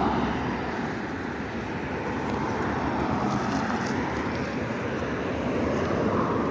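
Steady city street traffic: cars running past on a road, a continuous noisy rumble.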